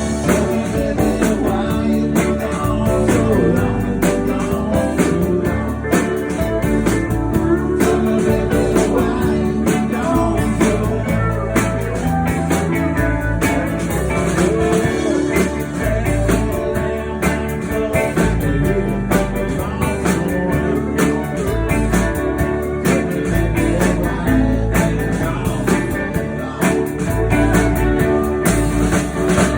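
Live band playing a blues-country song, with a singer, guitar and a steady drum beat.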